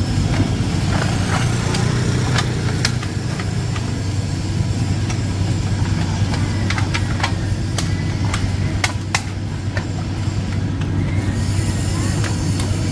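A steady low motor-like drone, with many short sharp clicks and taps scattered over it.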